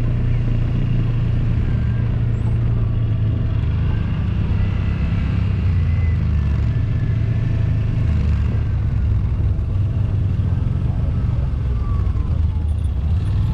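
Side-by-side UTV engine running steadily as it drives along a trail, a continuous low drone.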